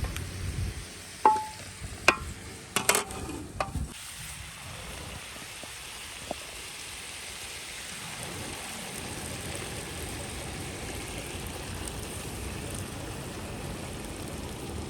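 A few sharp metal clanks, one with a short ring, of a utensil against a cooking pot in the first four seconds. Then a steady sizzle of food frying in the pot over a wood fire.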